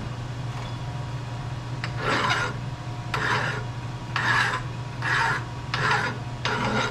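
Hand file rasping against a pre-hardened steel handle turning in a 1941 Axelson lathe. From about two seconds in, five or six strokes come roughly a second apart, over the lathe's steady hum.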